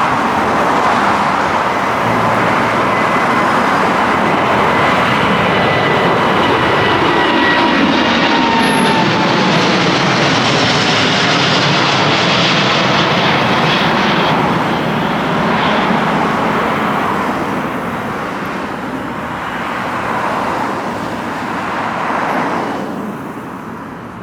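Widebody jet airliner climbing out low overhead after takeoff, its engines at high power: a loud roar with a faint whine that slides down in pitch as it passes. It fades away over the last ten seconds.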